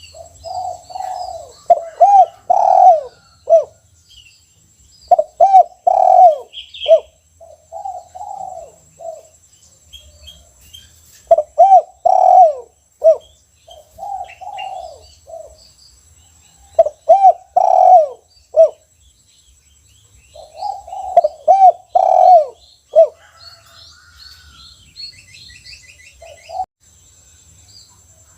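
Spotted dove (tekukur) singing its cooing song of the 'kuk 1' type: about five phrases of rhythmic low coos, each a few seconds long with short gaps between. Faint high chirps of small birds and a steady thin high whine sit behind it.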